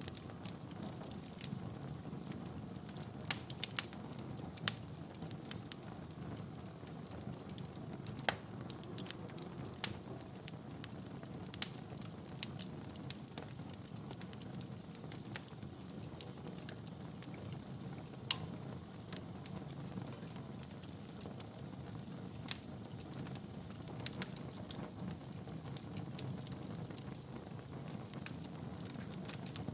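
Wood fire burning in a fireplace: a steady low rush of flames with irregular sharp crackles and pops, a few louder snaps scattered through.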